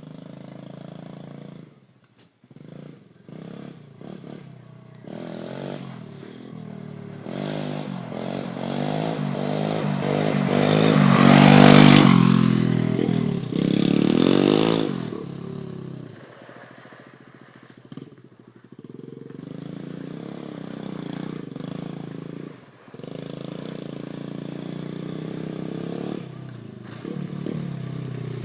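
Pit bike engine revving hard: a few short throttle blips, then a long climb in revs and loudness with several rises and falls in pitch, loudest about twelve seconds in. It settles to lower, steadier running for the second half, with a couple of brief drops in throttle.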